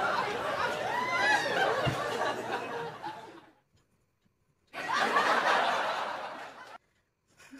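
Women giggling and laughing, with short rising and falling squeals, in two stretches with a brief quiet gap between them. A dull thump comes about two seconds in.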